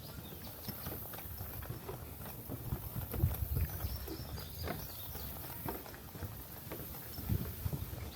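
Footsteps walking along a trail, a run of soft thuds and scuffs.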